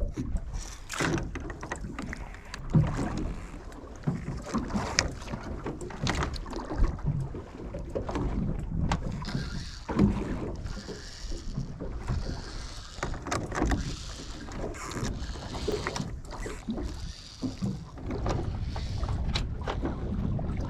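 A small boat at sea: a continuous low rumble with irregular knocks and thumps, and wind on the microphone.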